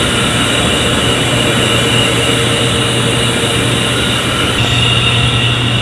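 Industrial air compressors running steadily: a loud constant drone with a low hum and a thin high whine.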